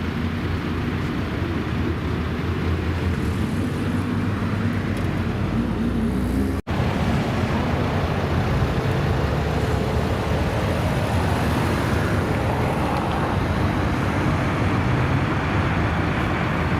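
Car engines running, with a steady idle and even engine notes at first. After an abrupt cut about six and a half seconds in, a busier, slightly louder mix of engine and traffic noise follows.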